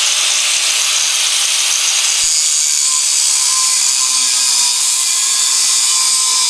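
Power tool cutting or grinding steel exhaust pipe, a steady, loud, hissing noise. About two seconds in the sound changes and a steady motor whine comes in.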